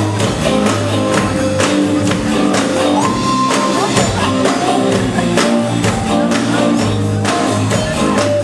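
Rock band playing live: a steady drum beat with guitar and bass.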